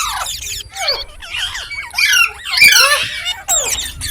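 Green parrot chirping and squawking in several quick bursts of sharp calls that sweep up and down in pitch, with short breaks between them.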